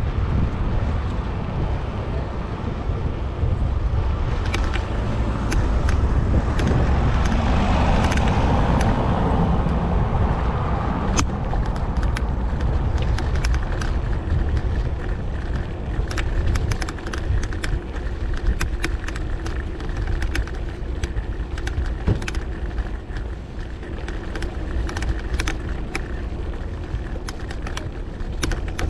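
Street traffic heard from a moving bicycle: a steady low rumble of wind on the microphone, a car passing about eight seconds in, and later a scattering of sharp, irregular clicks.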